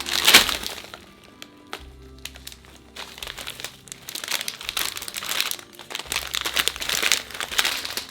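Packaging crinkling and rustling as it is handled: a loud burst right at the start, then sustained crinkling from about three seconds in. Soft background music runs underneath.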